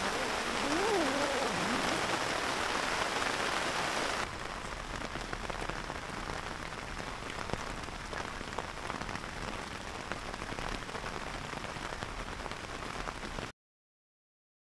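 Heavy rain falling steadily on a tent, with single drops ticking through it. About four seconds in it turns quieter and duller, and it cuts to silence about a second before the end.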